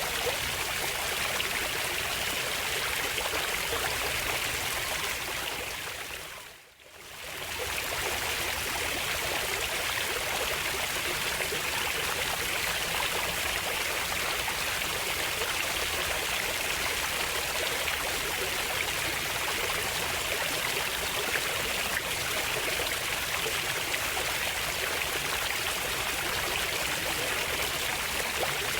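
Flowing stream water, a steady rushing and trickling. About six seconds in it fades out almost to silence and straight back in within a second or two.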